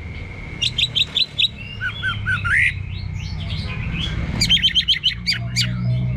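Orange-headed thrush singing a varied song: a quick run of sharp repeated notes, then slurred whistles, then a faster rattle of notes near the end. A steady low hum sits underneath.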